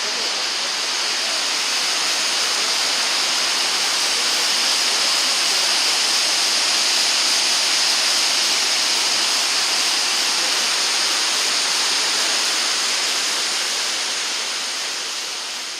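Kegon Falls, a large waterfall, plunging in a steady, full rush of falling water that eases slightly near the end.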